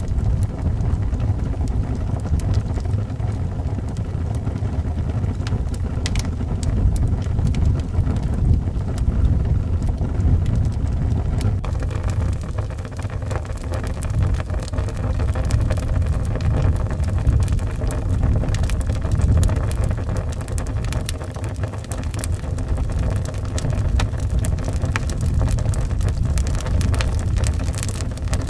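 Wood fire crackling with scattered sharp pops over a steady low rumble of howling wind; the crackling grows denser about twelve seconds in.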